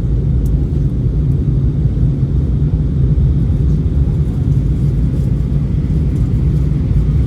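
Airbus A321 in flight, heard inside the passenger cabin: a steady, loud, low rumble of engine and airflow noise.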